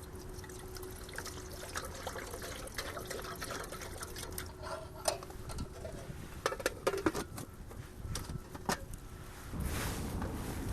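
Liquid sounds, with many small clicks and knocks, and a louder rush of noise near the end.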